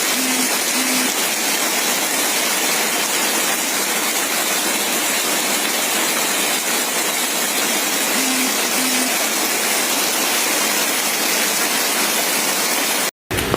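Steady, loud rushing water, as of heavy rain or a swollen river. It cuts out abruptly for a moment near the end.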